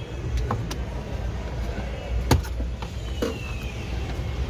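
Steady low rumble of motor vehicles, broken by scattered sharp clicks, the loudest a little past two seconds in, and a brief falling high tone near the middle.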